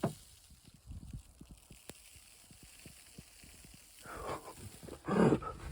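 Snowstorm wind gusting, with scattered faint taps and a click at the start.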